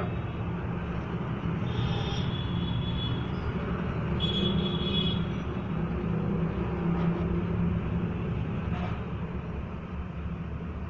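Steady low background rumble of vehicle noise, with a brief high whine about two seconds in and again about four seconds in.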